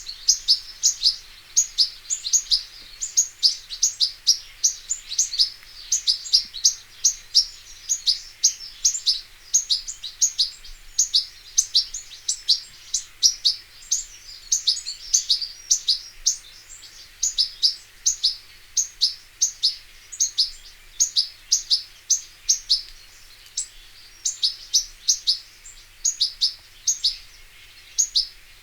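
European goldfinch singing: a continuous stream of quick, high twittering notes.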